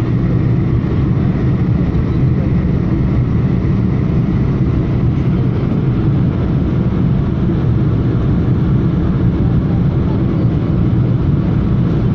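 Airliner noise: a loud, steady low rumble that holds level without rising or falling.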